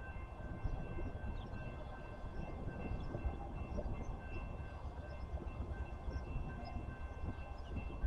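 A train rumbling past, a steady low rumble with faint steady high-pitched tones above it.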